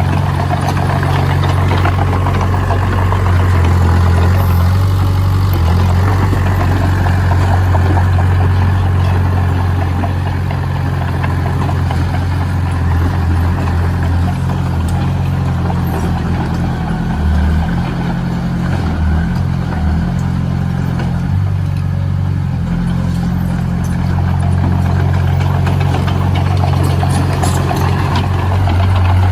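Heavy construction machine's engine running steadily, a deep low drone that eases slightly in the middle and picks up again near the end.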